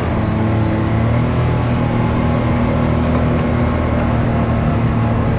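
Off-road vehicle engine running steadily at low, even revs while crawling along a rock trail, heard from on board.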